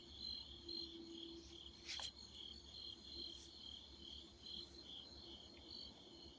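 Crickets chirping faintly in an even rhythm, about three pulses a second. Under them runs a faint low hum that comes and goes, and there is a single sharp click about two seconds in.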